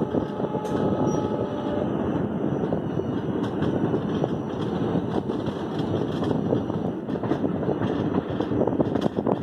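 Amritsar–Howrah Express passenger train running at speed, heard from an open coach doorway: a steady rumble of wheels on the rails with a dense, rapid clatter of clicks and rattles.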